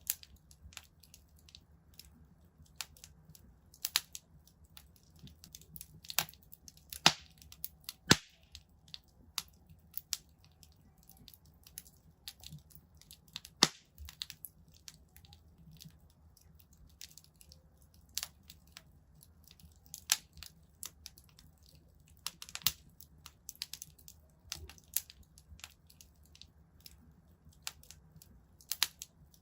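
Wood fire in a fireplace crackling, with irregular sharp pops, a few of them much louder, over a faint low rumble.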